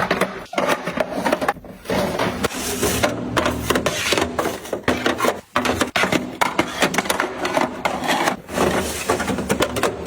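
Packaging and containers being handled and set down: continual rustling with many small clicks, knocks and scrapes.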